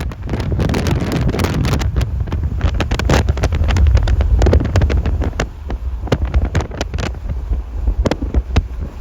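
Strong wind buffeting the microphone: a heavy low rumble with many sharp crackles and pops. It is loudest about three to four seconds in and eases a little after five.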